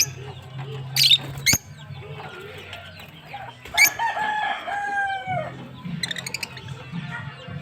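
Lovebirds giving short, sharp, high-pitched chirps, with a longer held bird call about four seconds in that drops in pitch at its end, over a steady low hum.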